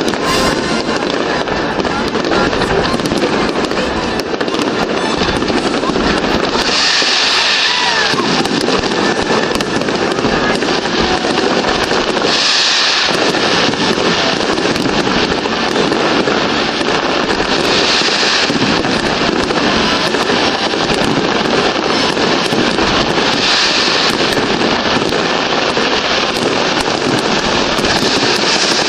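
Large fireworks display: a dense, continuous barrage of bangs and crackles, with a burst of high hissing crackle every five or six seconds.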